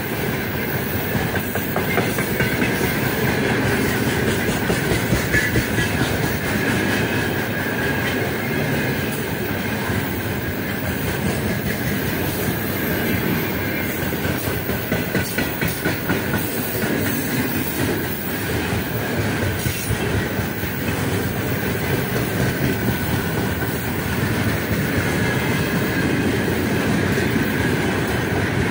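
Heavy freight train of open gondola wagons rolling past at speed: a steady rumble of steel wheels on rail with the clickety-clack of wheelsets over rail joints, more plainly rhythmic about halfway through, and a steady high-pitched ring over it.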